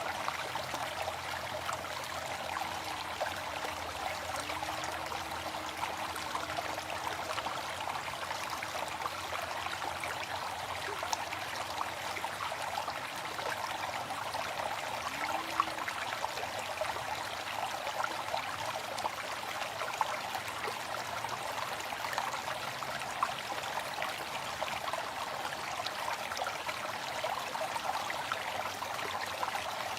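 Waterfall: a steady, even rush of falling water with small splashes scattered through it.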